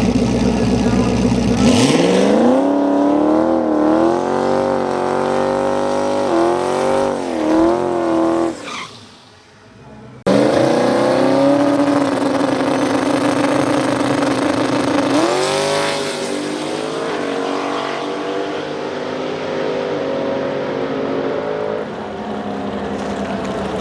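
Drag race car engine at full throttle launching and accelerating, its pitch climbing and dropping back at each gear shift before fading away. After an abrupt cut, another run: an engine holding steady, then climbing in pitch again.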